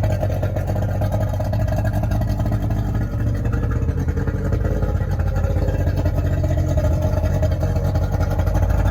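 An engine running steadily, a low even rumble with a steady hum above it.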